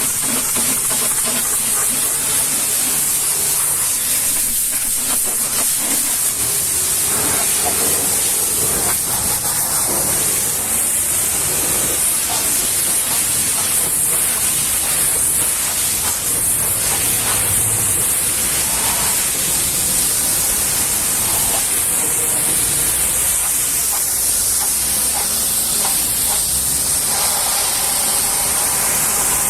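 High-pressure washer jet spraying water onto a vehicle, a steady, loud hiss.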